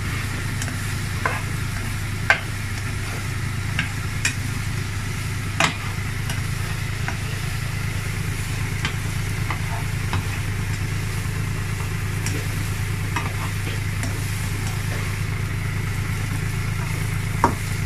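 Onions, mushrooms and garlic sizzling in oil in a nonstick frying pan while being stirred with a plastic spatula, which knocks against the pan now and then. A steady low hum runs underneath.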